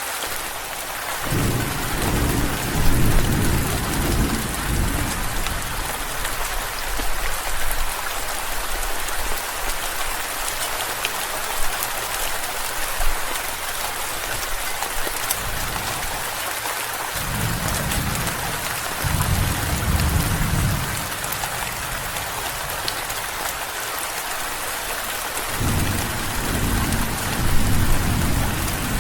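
Steady rain with three low rolls of thunder: one about a second in lasting several seconds, a longer one midway, and another near the end.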